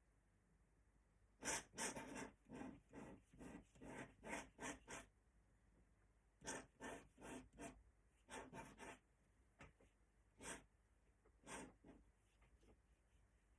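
Pen scratching on paper in short, quick strokes, in several clusters with pauses between them, as the ink drawing of the ball is worked in.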